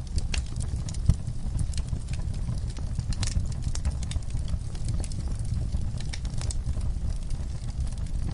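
Wood campfire crackling, with irregular snaps and pops scattered throughout over a low steady rumble.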